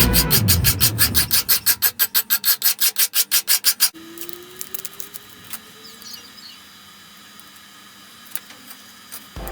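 Rapid, even back-and-forth scraping of a hand tool, like filing or rubbing, at about seven to eight strokes a second. It stops about four seconds in, leaving faint background noise with a few light clicks.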